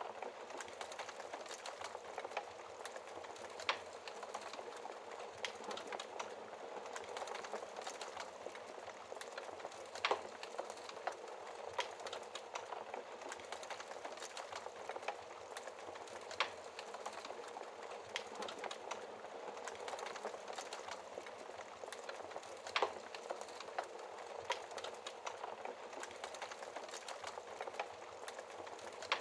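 Wood fire burning in a fireplace: a steady soft hiss full of small crackles, with four louder pops spaced about six seconds apart.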